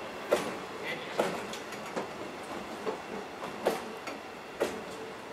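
Loaded Hoki 2000 limestone hopper wagons of a freight train rolling slowly past, their wheels clacking over the rail joints about once every second over a steady rumble.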